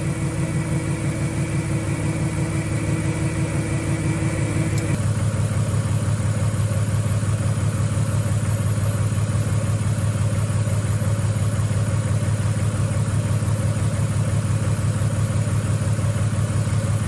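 Car engine idling steadily with an even pulsing beat. About five seconds in, a faint whine cuts out and the engine's note drops a little lower.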